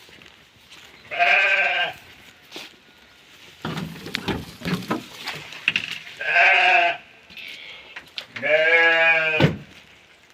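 Sheep bleating three times, each bleat about a second long with a rise and fall in pitch; some rustling and knocks come between the first and second bleats.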